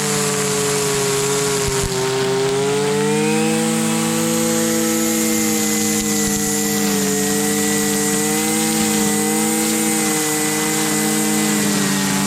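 Husqvarna 326LD string trimmer's small two-stroke engine running steadily, its pitch dipping and rising only slightly.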